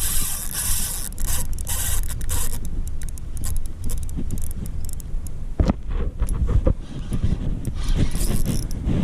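Wind buffeting a chest-mounted action camera's microphone, with irregular scraping, rustling and clicking handling noise over it.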